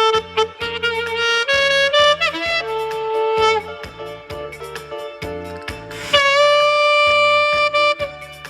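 Saxophone playing a slow melody over a backing track with a steady beat, ending on a long held note.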